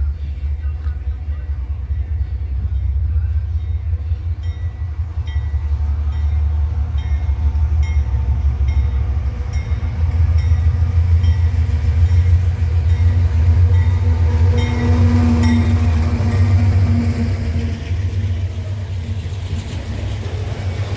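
Loaded grain freight train passing: a deep, steady rumble with a regular ticking about every two-thirds of a second, growing louder through the middle and easing off near the end.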